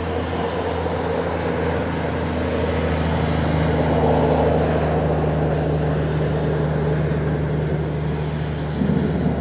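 A steady low mechanical hum under a rushing noise that swells and fades about three to four seconds in and again near the end.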